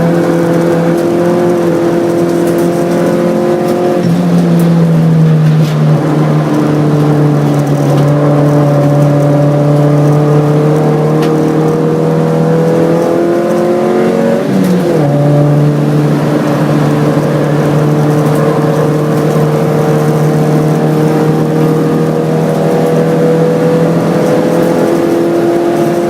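Hyundai Excel race car's 1.5-litre twin-cam four-cylinder engine running hard under load, its note rising and falling with speed, with one sharp drop in pitch about fifteen seconds in.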